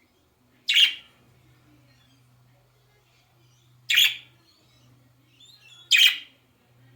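A bird's harsh squawk, three short calls: one about a second in, then two more about three and two seconds apart.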